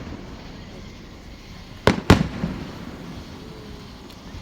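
Two firework shell bursts about two seconds in, a fifth of a second apart, each a sharp bang followed by a rumbling echo.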